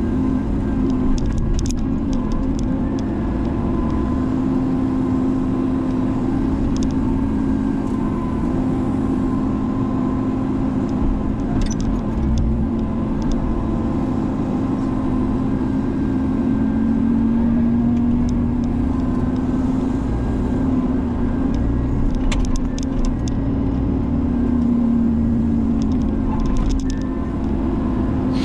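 Menzi Muck spider excavator's diesel engine running steadily, its pitch dipping slightly now and then, with scattered short sharp clicks.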